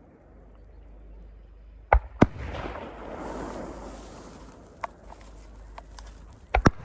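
Aerial fireworks shells bursting: two loud bangs about two seconds in, a few smaller pops, and another pair of loud bangs near the end, with rumbling echo between.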